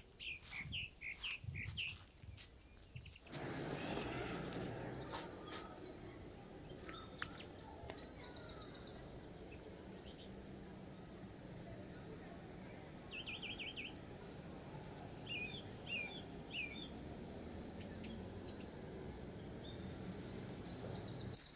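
Small songbirds chirping in short, repeated calls. About three seconds in, a steady rushing noise starts suddenly and runs under the birdsong.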